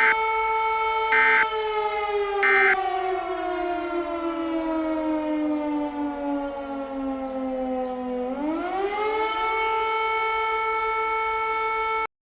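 Outdoor tornado warning siren sounding a single steady tone, the alert for an imminent tornado. After about a second and a half its pitch slowly winds down over several seconds, then rises quickly back up about eight seconds in and holds until it cuts off suddenly near the end. Three short, brighter blasts sit on top of it in the first three seconds.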